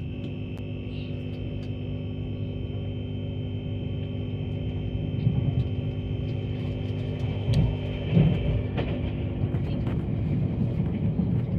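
Interior noise of a moving passenger train: a steady low rumble with an electric hum and a high whine that stops about two-thirds of the way through, the whole sound slowly growing louder, with a few sharp knocks and rattles.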